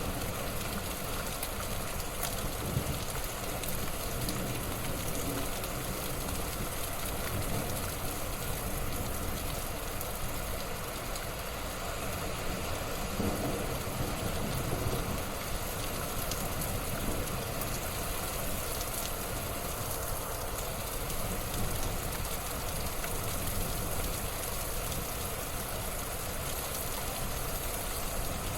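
A fire burning in a fireplace, with a steady hiss and low rumble and scattered small crackles.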